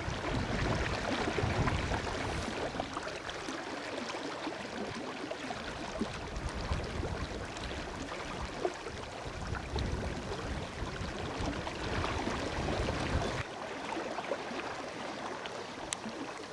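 River water running, with gusts of wind buffeting the microphone in a low rumble that comes and goes and cuts off sharply near the end.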